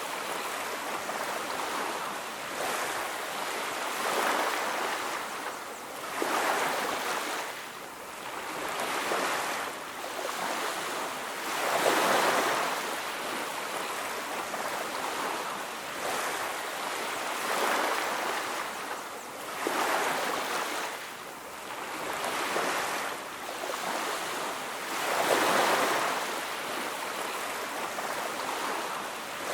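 Ocean surf on a beach: waves washing in and drawing back, the rush swelling and easing every few seconds.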